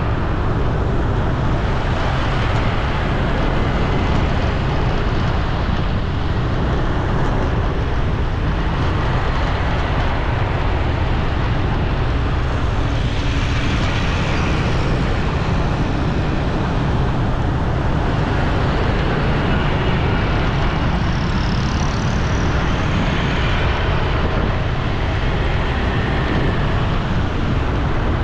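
Steady road traffic noise with a constant low rumble, with no single event standing out.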